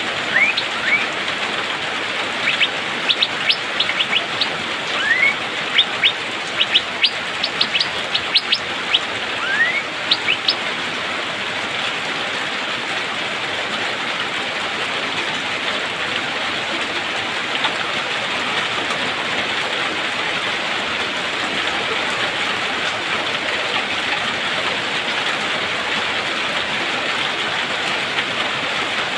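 Asian fairy-bluebird (cucak biru) giving short, sharp 'pik-pik' calls and a few quick rising whistles over steady rain. The calls stop about ten seconds in and only the even hiss of rain remains.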